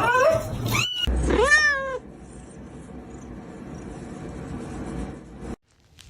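Domestic cat meowing: two drawn-out meows in the first two seconds, the second falling in pitch. Then faint steady background noise until the sound cuts off abruptly near the end.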